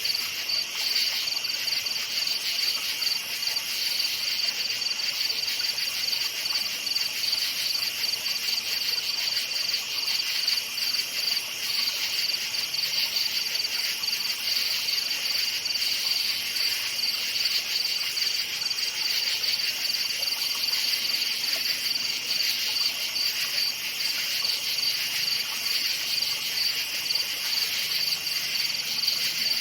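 Crickets chirping in an unbroken night chorus: a steady, high, finely pulsing trill.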